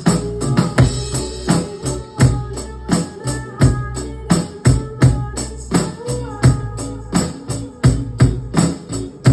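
Drum kit played in a steady beat along to a recorded song, with the crisp cymbal or tambourine hits keeping time over the song's bass and melody.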